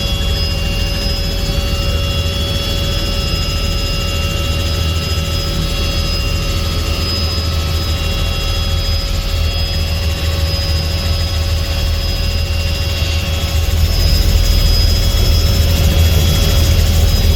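Helicopter running steadily: a deep rotor drone with steady high turbine whine tones over it, growing slightly louder about fourteen seconds in.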